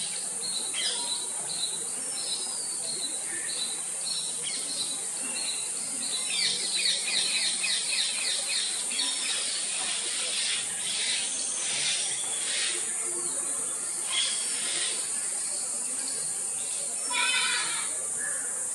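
Several birds chirping and calling over a steady high-pitched insect drone, with a run of rapid repeated chirps about six to ten seconds in and another short burst near the end.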